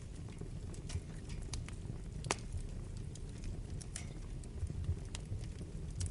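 Wood fire burning in a fireplace: a steady low rumble of the flames with irregular sharp crackles and pops, the loudest pop a little over two seconds in.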